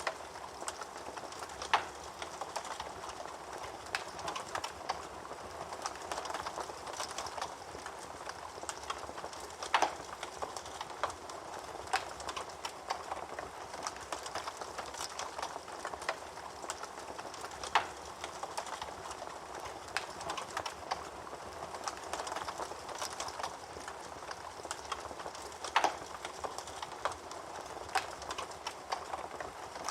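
Wood fire burning in a fireplace: a steady crackle of small pops over a soft hiss, with four louder snaps about eight seconds apart.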